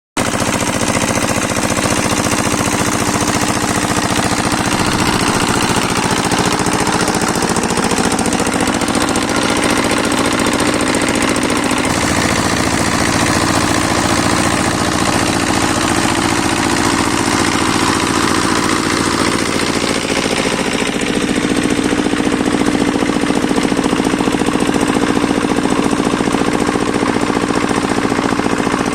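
A small engine running steadily at a fast, even speed, its note shifting slightly a few times.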